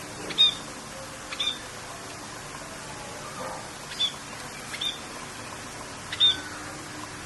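A bird chirping, five short high chirps a second or two apart, over a steady hiss of rain.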